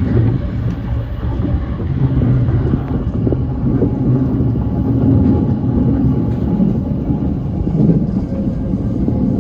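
E235 series electric train running at speed: a steady low rumble of wheels on rail, with a faint hum from the train's equipment.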